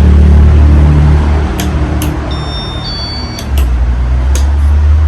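Steady low rumble of a running Casablanca Halogen Star ceiling fan, its air buffeting the microphone. The rumble eases for a couple of seconds in the middle and then comes back, with several sharp clicks and a brief high tone along the way.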